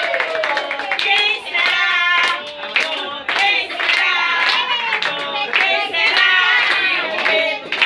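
Several voices singing together with hand clapping, over music.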